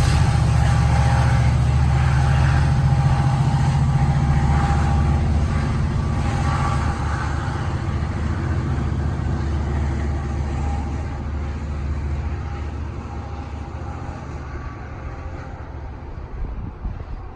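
Caltrain diesel locomotive running, its deep engine hum steadily fading as the train moves away.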